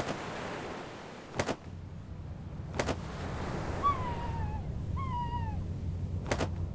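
Seagull calling twice, about a second apart, each a short call falling in pitch, over a steady hiss and low hum, with a few sharp clicks.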